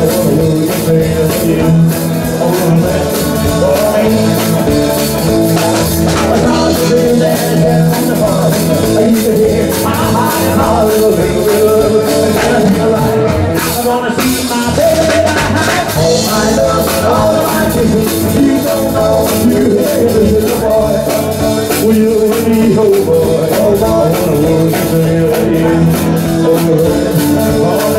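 A live rock band playing a song, with a singer, drums and guitar.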